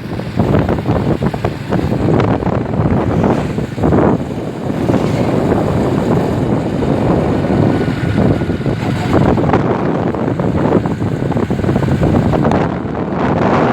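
Wind buffeting the microphone of a rider on a moving bike: a loud, gusting rumble of noise.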